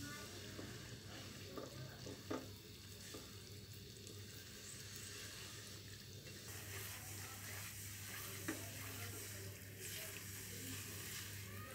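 Semolina sizzling faintly in hot ghee in a metal karahi while being stirred with a silicone spatula, with a couple of light knocks of the spatula against the pan. This is the semolina being roasted in ghee, the first stage of sooji halwa, over a steady low hum.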